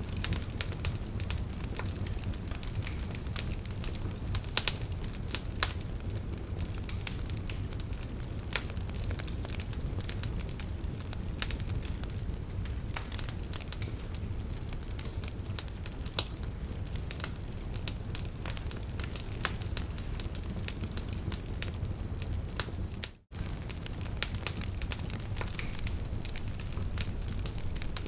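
Wood fire crackling in a fireplace: a steady low rumble of burning with frequent sharp pops and snaps scattered irregularly throughout. The sound cuts out for an instant about 23 seconds in.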